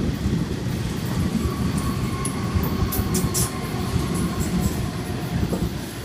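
Sydney Trains Waratah electric multiple unit passing through the platform: a steady rumble of wheels on rail, a faint high tone, and a few sharp clicks about three seconds in. The sound eases off near the end.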